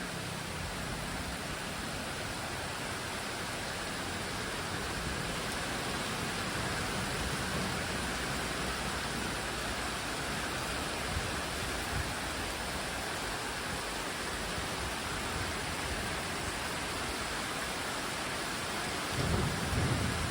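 Heavy rain pouring steadily, with a low rumble of thunder rising near the end.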